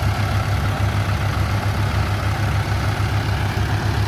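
Tractor diesel engine running steadily, with a fast, even low throb.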